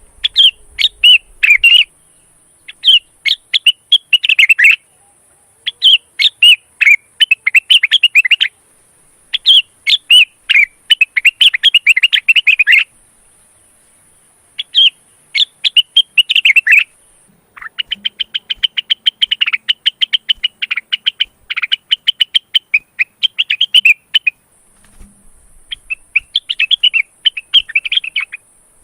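Male cucak rengganis (blue-winged leafbird) singing in breeding condition: phrases of rapid, high chirping notes separated by short pauses, with a longer run of fast repeated notes about halfway through.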